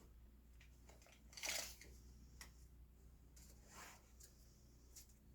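Faint handling sounds of a wooden picket and measuring tools being moved on a workbench: a short scrape about a second and a half in, a softer one near four seconds, and a few light ticks over a steady low hum.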